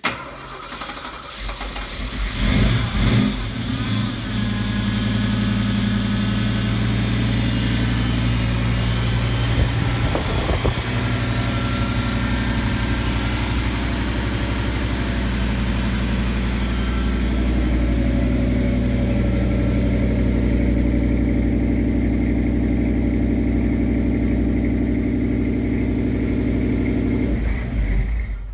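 1974 Ford F250 pickup engine starting from cold. It fires at once, revs up briefly about two to four seconds in, then settles into a steady idle that stops abruptly near the end.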